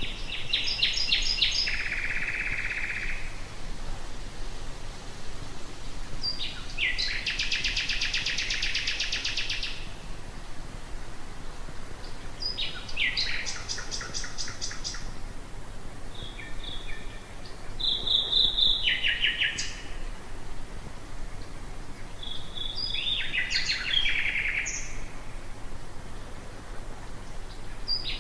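Common nightingale singing: a series of phrases of rapid, repeated notes and trills, each lasting a couple of seconds, separated by short pauses.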